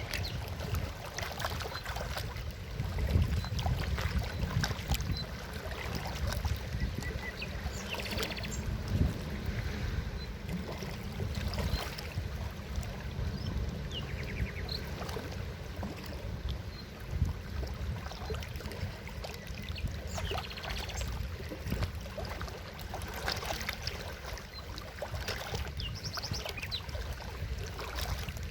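Forest river flowing: a steady low rush of water with frequent short splashes.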